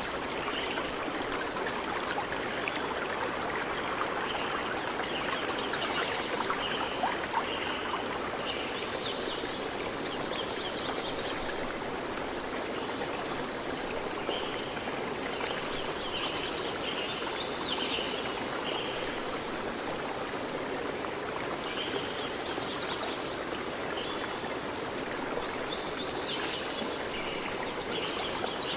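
Stream flowing steadily, with small birds chirping above it in several spells of quick high calls.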